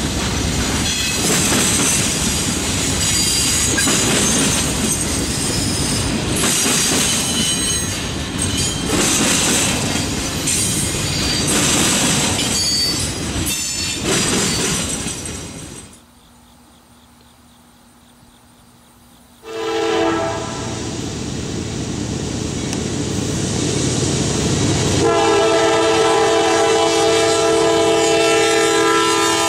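Triple Crown RoadRailer trailers rolling past on their rail bogies, the wheels clattering over the rails with a steady rumble, until it cuts out about halfway through. After a few seconds of quiet, a Norfolk Southern diesel locomotive approaches and sounds its air horn: a brief note, then a long blast of several notes together held through the last few seconds.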